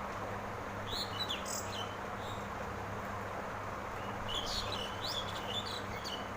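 Birds chirping in two short bouts, about a second in and again from about four to six seconds in, over a steady hiss and low hum.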